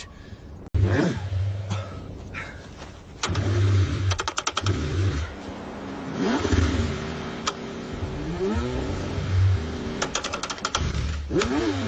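Cold car engine being cranked and struggling to start, running in uneven low bursts with pitch sweeps as it catches and revs. A rapid run of clicks comes twice, about 4 s and 10 s in.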